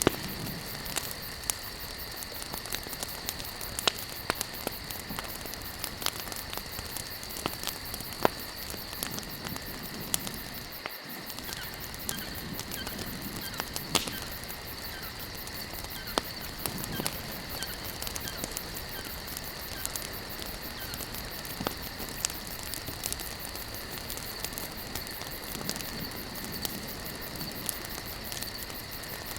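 Campfire burning: wood crackling with irregular sharp pops over a steady hiss of the flames.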